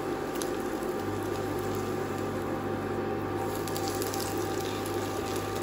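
French toast frying in butter in a nonstick pan: a steady soft sizzle. A low steady hum joins about a second in.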